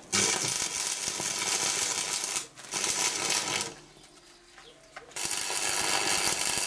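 Stick welder arc crackling and hissing in three bursts, the third starting about five seconds in: tack welds fixing a hydraulic bottle jack to a steel stand.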